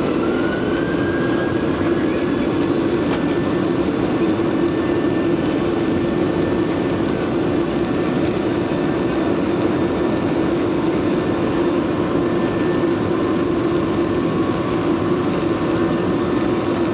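Boeing 737 jet engines running hard for takeoff: a steady loud drone with a higher whine that rises slightly over the first two seconds, then holds level.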